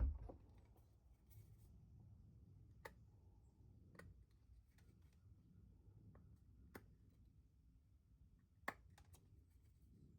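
Faint sound of hand-chisel carving in a cedar block: a knock right at the start, then a handful of sharp clicks a second or two apart over a low room hum.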